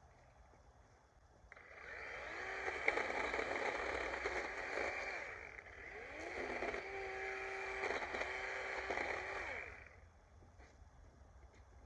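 DeWalt 20V battery chainsaw's electric motor running in spurts, its pitch rising and falling as it speeds up and slows down, with a steadier stretch in the middle. It starts after a short pause and stops a couple of seconds before the end.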